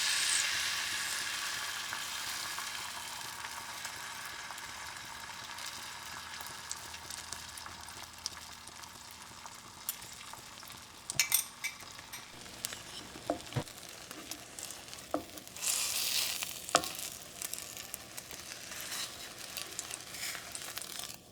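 A sizzling hiss that starts suddenly and slowly fades, with scattered light clicks and knocks later on and a brief swell of hiss near the middle of the second half.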